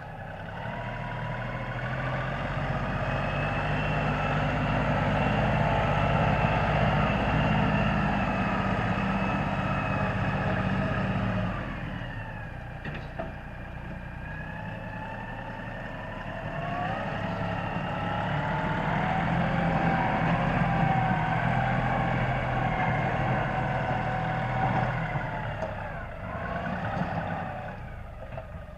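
LS4135 compact diesel tractor's engine running under load while plowing snow with its front blade, working harder in two long stretches and easing off for a few seconds about halfway. A high whine dips in pitch and comes back up during the lull.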